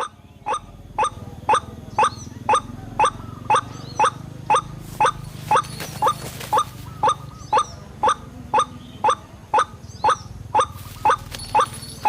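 White-breasted waterhen calls: one short, sharp call repeated at an even pace of about twice a second, the kind of repeated call used to lure waterhens to a trap.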